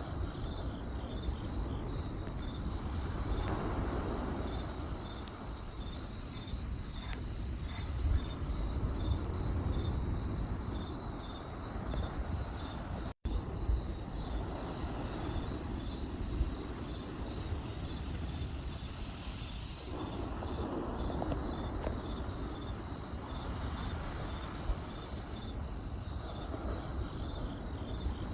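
Crickets chirping in a steady, evenly pulsing trill over a low, swelling rumble, with a few sharp crackles from a campfire. The sound cuts out for an instant about halfway through.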